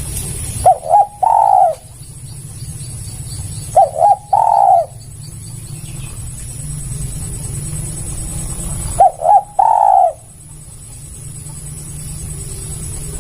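Spotted dove (tekukur) cooing three times, each call two short notes followed by a longer drawn-out coo.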